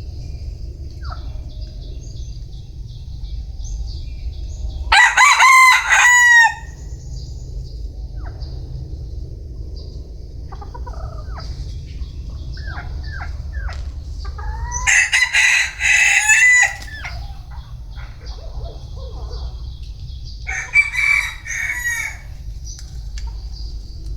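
Gà tre (Vietnamese bantam) rooster crowing three times, each crow a drawn-out call of about one and a half to two seconds, spaced several seconds apart, the last one shorter.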